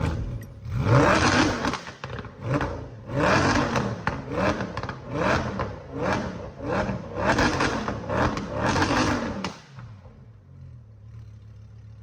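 Lamborghini engine being free-revved in quick blips, about nine in a row roughly once a second, each rising and falling in pitch, then settling to a steady idle near the end.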